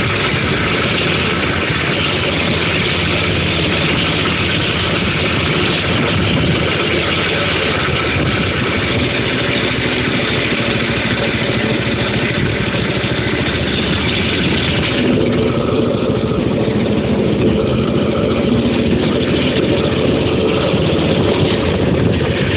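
Dirt bike engine running while the bike is ridden, loud and steady. About fifteen seconds in, the hiss in the upper range drops and the engine's tone comes through more clearly.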